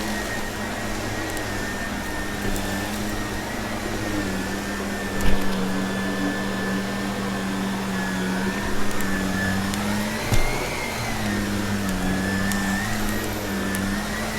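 Vacuum cleaner running steadily, its motor whine dipping and rising slightly as it is worked, with scattered crunchy ticks of debris being picked up and a couple of louder knocks.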